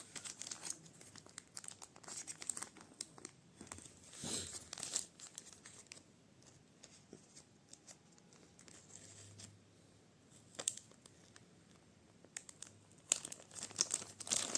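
Packaging being handled and unwrapped: faint crinkling and rustling with small clicks, in a few brief flurries, loudest about four seconds in and near the end.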